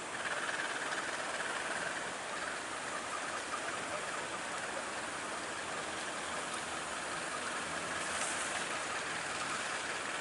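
Diesel-hauled passenger train making a steady running noise, which grows a little louder at the start and then holds.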